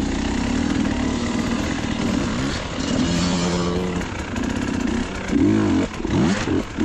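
Dirt bike engine running, its pitch held steady for about a second partway through, then revved up and down several times in quick blips near the end.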